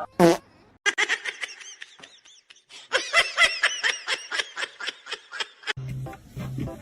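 A short, sharp sound falling in pitch, then high-pitched laughter in rapid, choppy bursts. Music with a steady beat starts near the end.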